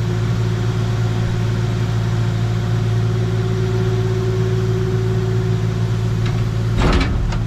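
An engine running steadily with a low, even hum, and a brief clatter near the end.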